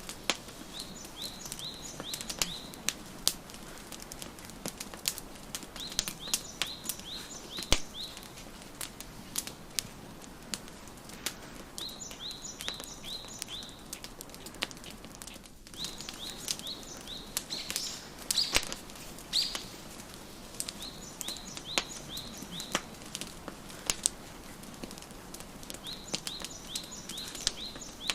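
Wood fire crackling, with frequent sharp pops and snaps, under a bird's song: short phrases of quick, high chirps repeated every few seconds.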